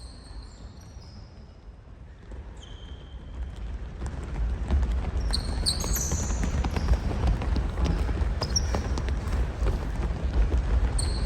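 Several basketballs bouncing on a gym floor with sneakers squeaking, the many bounces building up about four seconds in as more players start dribbling.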